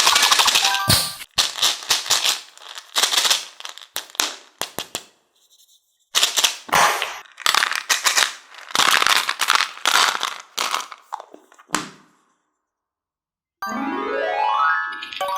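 Cartoon sound effects: two long runs of irregular, noisy clattering bursts with a gap between them, then a rising stepped musical tone near the end.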